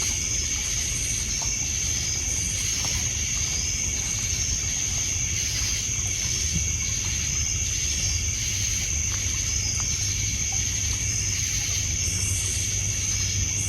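Night insect chorus: a steady high cricket trill with a second, slower insect chirp repeating over and over, over a low wash of water on a pebble beach and a few faint crackles from a wood campfire.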